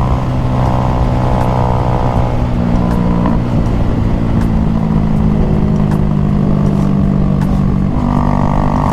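Honda Grom's 125 cc single-cylinder engine running downhill on a closed or part-open throttle, changing speed about two and a half seconds in and again near the end, with a few faint pops from the exhaust: the bike is backfiring. Wind rumble on the helmet camera runs underneath.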